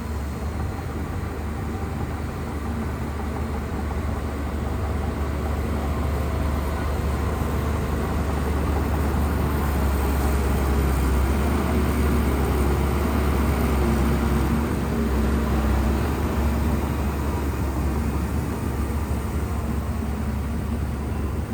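Large Shantui bulldozer's diesel engine running steadily under load with a deep rumble, growing somewhat louder toward the middle and easing off slightly near the end.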